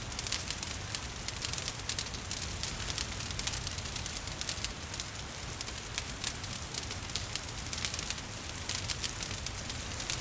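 Wood fire crackling with frequent small sharp pops, over a steady hiss of gentle rain and a low fireside rumble.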